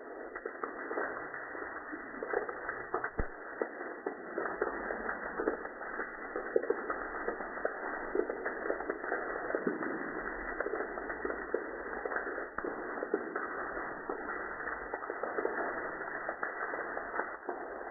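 Rain falling steadily, an even hiss with many small sharp drop impacts, heard dull and muffled.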